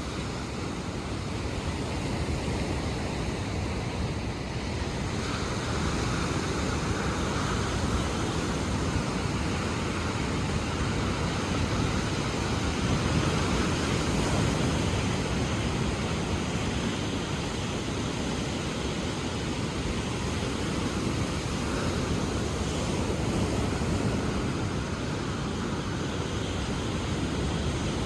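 Ocean surf washing in a steady rush, with slow swells in loudness as waves come in.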